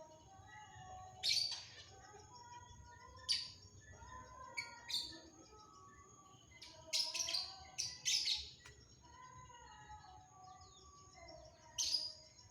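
Long-tailed shrike (cendet) singing: sharp, piercing calls every couple of seconds, with a quick run of them about seven to eight seconds in, over softer warbled phrases.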